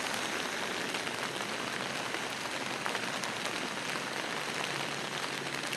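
Steady moderate rain falling, an even hiss with scattered drop ticks.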